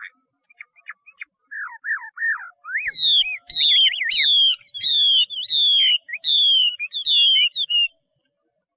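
Chinese hwamei (Garrulax canorus) singing. A few short notes and rising slurs give way, about three seconds in, to a run of loud, clear whistles, each sliding downward, about eight in five seconds. The song stops near the end.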